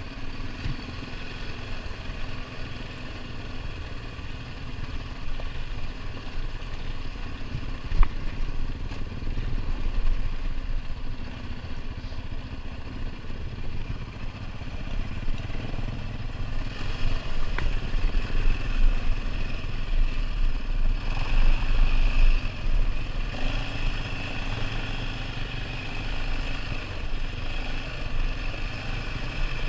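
ATV engine running steadily as it rides a rough dirt trail, with a low rumble, a single sharp knock about eight seconds in, and the engine getting louder from about halfway through.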